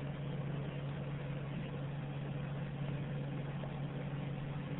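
Steady low hum with an even hiss under it, unchanging throughout: a motor, fan or similar appliance running in the background.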